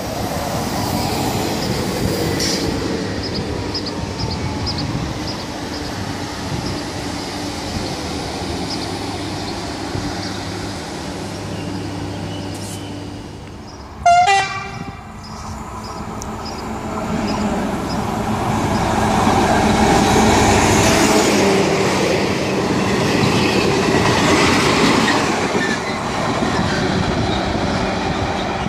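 A double-deck electric regional train runs through with a steady hum and light rail clicks. About halfway there is one short, very loud horn blast. Then a train hauled by a BB 66000-class diesel locomotive comes closer, its engine and wheel noise building to a peak about two-thirds of the way through, then easing off.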